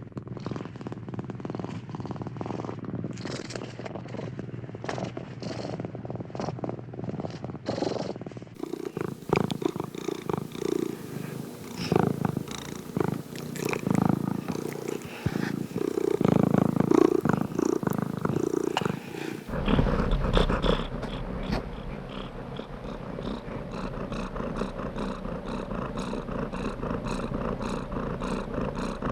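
Domestic cat purring close up, in a steady rhythmic rumble. The sound changes abruptly about eight seconds in to a louder, more uneven purr, and again near twenty seconds in to a steadier, evenly pulsing one.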